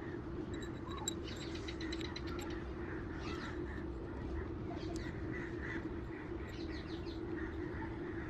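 Birds calling with short chirps, including a rapid run of ticks about a second in, over a steady low hum.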